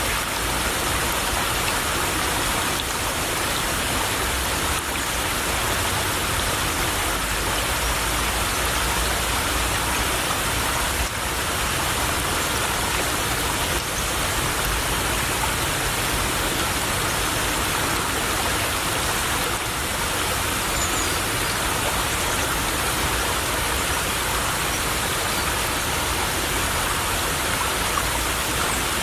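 Small stream of water trickling and babbling steadily, an even, continuous rush of water.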